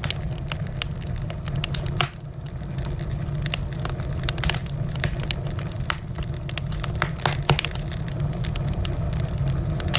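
Wood fire in a fireplace crackling: dense pops and snaps over a steady low rumble, with a few louder cracks about two seconds in and again near seven seconds.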